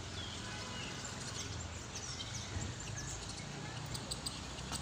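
Birds chirping over a steady low rumble of outdoor background noise, with a run of quick, sharp chirps near the end.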